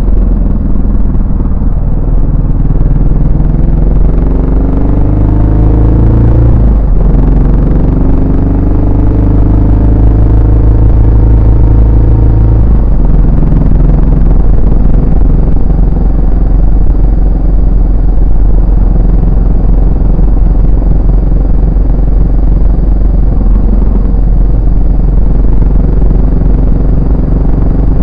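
Yamaha SR400's single-cylinder four-stroke engine and exhaust while riding. The pitch rises under acceleration, breaks briefly at a gear change about seven seconds in, then holds steady, and settles to a lower, even cruising note after about thirteen seconds.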